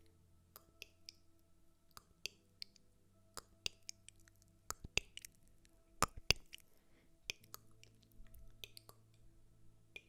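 ASMR trigger sounds: a string of soft, irregular clicks and taps, the loudest a close pair about six seconds in, over a faint steady hum.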